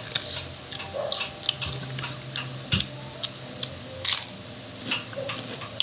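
Close-up eating sounds: chewing with irregular, sharp wet clicks and smacks, several a second.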